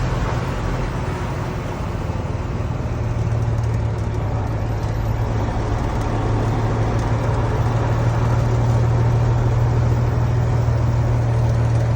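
Steady low engine drone and road noise inside a moving truck's cab at highway speed.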